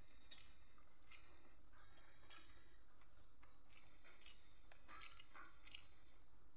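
Close-miked chewing: irregular wet mouth clicks and smacks, several a second in places, mixed with soft squishes of fingers working rice and greens on a metal plate.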